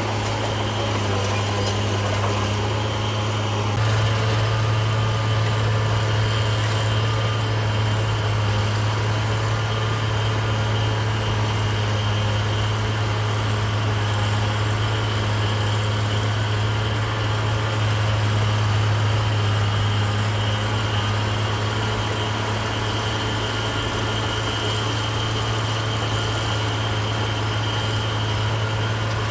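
Heavy diesel engine of construction machinery running steadily with a constant low hum, getting slightly louder about four seconds in.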